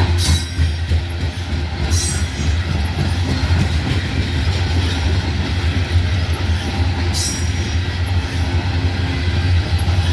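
Rotary dump coal hopper cars of a freight train rolling past at close range: a steady heavy rumble of wheels on the rails, with brief high-pitched squeals three times.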